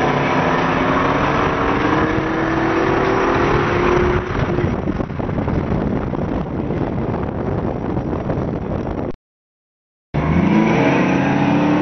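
Car engine under hard acceleration, its pitch rising steadily, then easing about four seconds in. Near the end the sound drops out completely for about a second and comes back with the engine revving up again.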